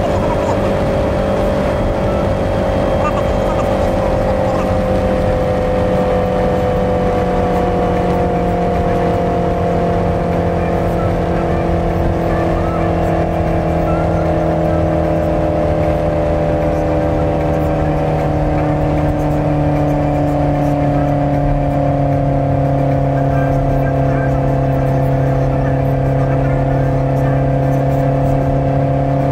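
Mercedes V8 car engine running steadily at cruising speed, heard from on board. Its note sinks slowly and evenly as the car eases off, over a constant rush of tyre and wind noise.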